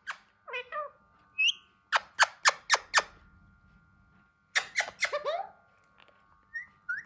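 Alexandrine parakeet giving short, sharp squawks and chirps in bursts: four quick squawks about two seconds in and another cluster about five seconds in, with a couple of short rising chirps near the end.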